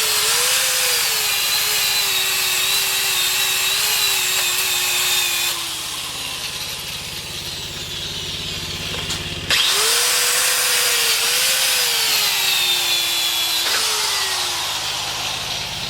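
Handheld power grinder running against metal, cleaning slag off a fresh stick weld, its whine wavering as it is pressed into the work. It winds down about five seconds in and starts again about four seconds later.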